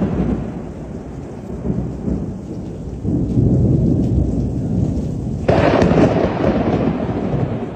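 Thunder rumbling through heavy rain. It swells about three seconds in, and a louder, sharper peal breaks in about two-thirds of the way through.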